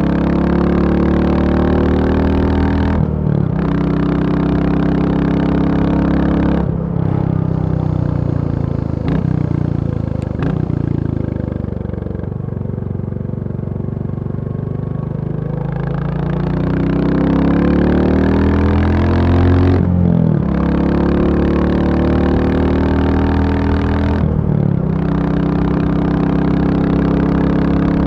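Royal Enfield Bullet 350's single-cylinder four-stroke engine under way. It pulls up through the gears with a short break at each shift, eases off with falling revs in the middle, then accelerates again through two more shifts.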